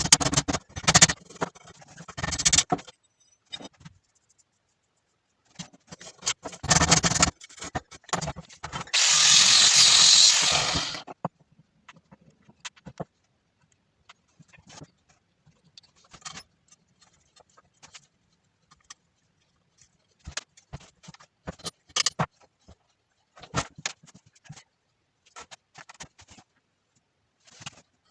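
Workshop handling sounds: scattered clicks, knocks and scraping of metal parts and tools, with a loud, even hissing burst of about two seconds some nine seconds in.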